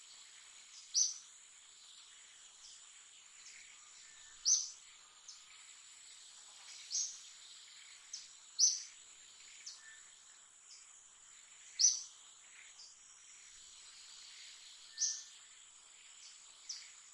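Steady high insect trilling, with a bird giving short, high, falling chirps every few seconds.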